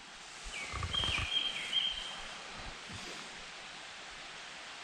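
Japanese thrush singing at a distance: a couple of short whistled phrases about half a second to two seconds in, then quiet forest background. A few faint low thuds come with the first phrase.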